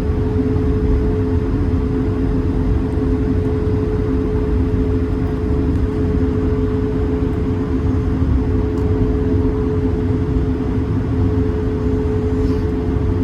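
Cabin sound of an Airbus A220-300: the Pratt & Whitney PW1500G geared turbofans give a steady two-note hum over a constant low rumble of airframe and air noise.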